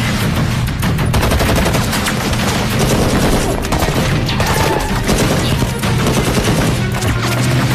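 Automatic gunfire in a movie shootout: rapid, continuous volleys of shots.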